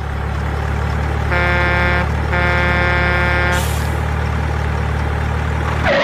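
Truck sound effect: a diesel truck engine running steadily, with two horn blasts (the second longer) and then a short air-brake hiss.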